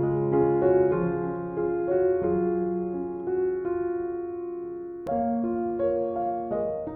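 Gentle background piano music: a slow melody over soft chords, with a new chord struck about five seconds in.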